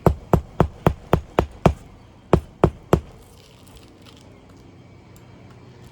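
Hammer driving a roofing nail into asphalt shingles on a roof: about ten sharp strikes at roughly four a second, with a brief pause after the seventh, stopping about three seconds in.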